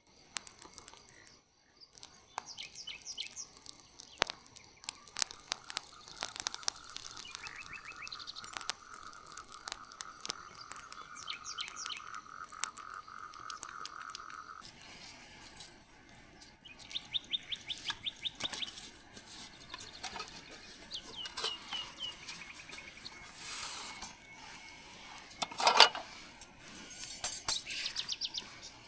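Small birds chirping and trilling, including one long even trill in the middle, over scattered light clicks and knocks, with one louder knock near the end.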